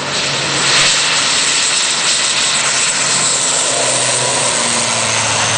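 An ATR-72's twin turboprop engines and propellers running at high power during the takeoff run. A loud, steady rushing noise over a low propeller hum, growing louder about a second in.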